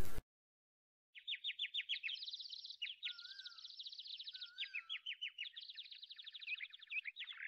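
Birds singing: after about a second of silence, fast trills of short, high, repeated chirps carry on continuously, with a couple of lower whistled glides in between.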